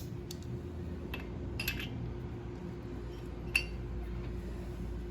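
A few light metallic clinks and taps of hand tools and small engine parts being handled, the sharpest about three and a half seconds in, over a steady low hum.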